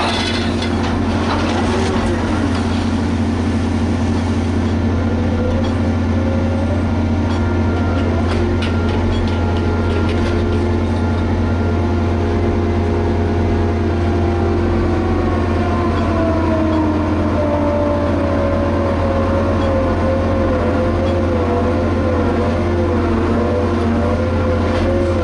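Liebherr HS 8200 dragline working: a loud, steady low engine drone with a whining tone over it that slides down in pitch from about midway and then wavers.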